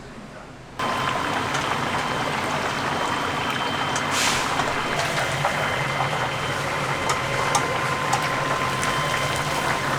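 Whole chicken deep-frying in hot oil: a loud, steady sizzle that starts suddenly about a second in, with a thin steady whine over it.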